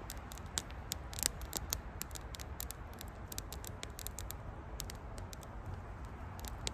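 Wood fire crackling: irregular small pops and snaps, several a second, over a low steady rumble.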